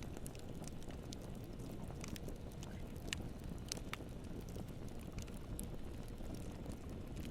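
Wood campfire burning: a steady low rumble of flame with scattered crackles and small pops, a few sharper pops about three to four seconds in.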